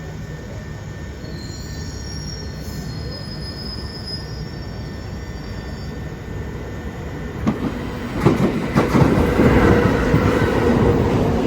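A Direct Rail Services Class 88 locomotive hauling a freight train through a station: a steady low rumble builds as it approaches. About eight seconds in, it passes close with a sudden, much louder clatter of wheels over the rail joints and some wheel squeal.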